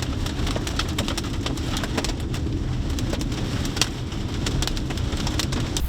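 Hailstones striking a vehicle: scattered sharp clicks and pings at irregular intervals, several a second, over a steady low rumble.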